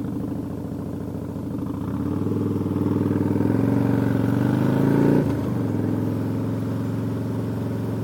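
Harley-Davidson Dyna Super Glide's V-twin engine running under way, its note rising as the bike accelerates from about two seconds in. The note drops suddenly about five seconds in, then settles into a steady, lower run.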